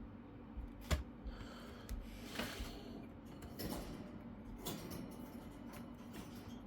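Small clicks and soft rustling taps of plastic laptop parts being handled while a touchpad ribbon cable is fitted, with one sharp click about a second in.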